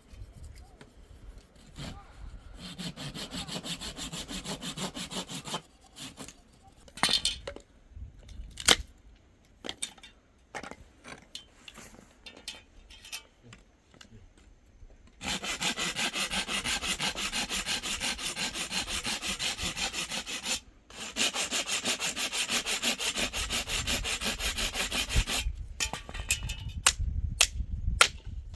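Fast, even rasping strokes in three spells: a short one a few seconds in, then two long ones in the second half with a brief break between. Scattered sharp knocks and clicks fall between the spells and near the end.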